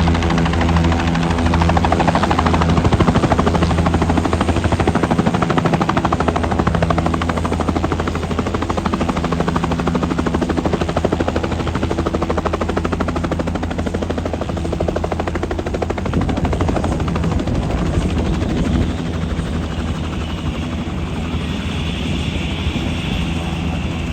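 Helicopter in flight: a fast, steady chop of rotor blades over a low hum, easing slightly in loudness in the latter part, with a high whine coming in near the end.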